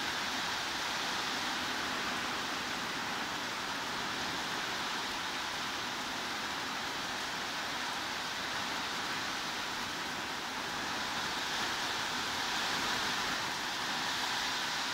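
Steady heavy rain falling, a dense even hiss of drops.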